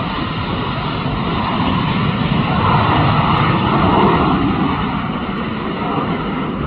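Cessna Citation Mustang's twin Pratt & Whitney Canada PW615F turbofans at takeoff power, a steady jet rush that swells to its loudest about three to four seconds in, then eases a little.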